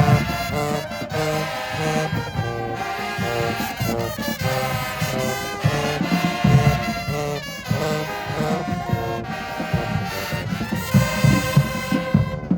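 High school marching band playing, the brass horns carrying the tune over the drums; the horns cut off near the end, leaving the drums.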